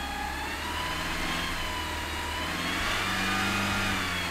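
1989 Chrysler Daytona engine idling shortly after a cold start, a steady hum whose pitch rises slightly in the middle and eases back down.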